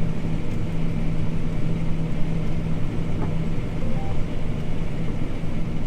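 John Deere T670i combine harvester running steadily while cutting spring barley: a constant low hum with an even rumble beneath it.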